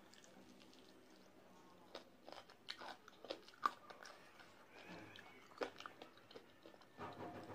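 Close-miked eating of spicy sauce-coated fried chicken wings: biting and chewing, heard as a series of sharp clicks. The clicks start about two seconds in and are loudest about three and a half seconds in, with a few more near the end.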